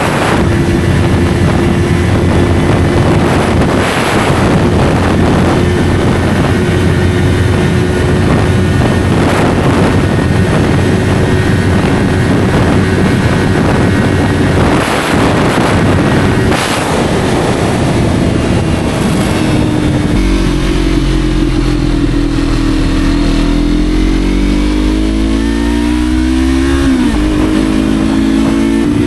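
Yamaha R3's 321 cc parallel-twin engine through an SC Project slip-on exhaust, running at speed under a heavy rush of wind for most of the way. About two-thirds through the wind noise fades and the engine note comes through clearly. The revs climb steadily, then drop sharply near the end as a gear changes up.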